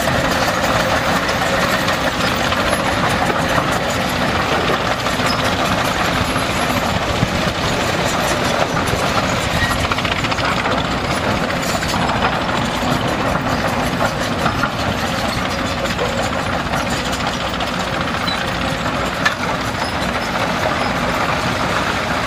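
Diesel engine of heavy equipment running steadily.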